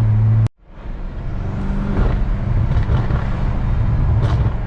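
BMW F10 M5's twin-turbo V8 exhaust with an X-pipe, heard close to the tailpipes. About half a second in the sound cuts out with a click, then the exhaust note builds back up over about a second and runs on.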